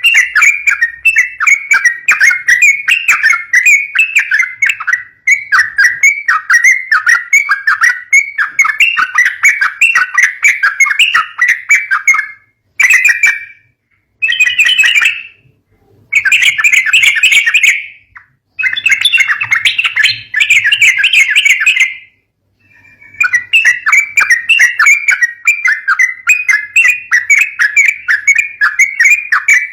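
Yellow-vented bulbul (trucukan) calling in a rapid, continuous chatter of short notes. This is the fighting call used as a lure for young bulbuls. The chatter breaks off briefly a few times around the middle.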